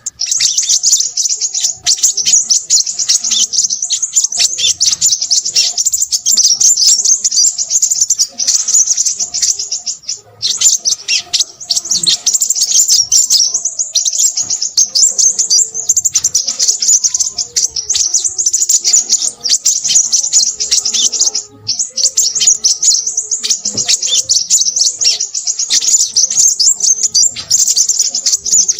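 Crimson sunbird singing: a rapid, high-pitched twittering chatter that runs almost without pause, breaking off briefly twice.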